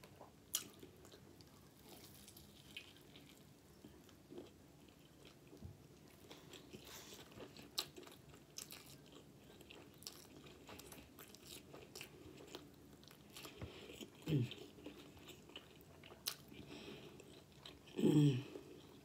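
Close-up chewing and wet lip-smacking of a person eating a pulled pork burger with crispy onions, with many small mouth clicks. Twice, about two thirds in and near the end, a short hummed 'mm' rises over the chewing.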